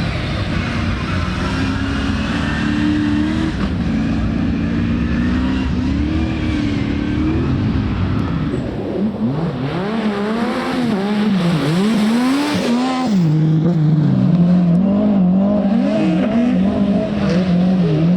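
Rally car engine being driven hard on a stage, its note rising and falling repeatedly through gear changes and throttle lifts. About nine seconds in it swings quickly up and down several times, then holds a higher, steadier pitch as it gets louder.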